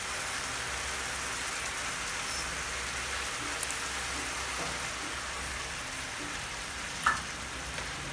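Igado (pork and pork liver) in a frying pan sizzling steadily in its sauce just after a little water was added. There is a single short tap about seven seconds in.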